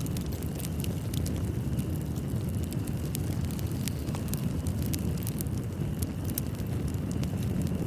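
Fireplace fire burning with a steady low rumble and frequent sharp crackles and pops of burning wood.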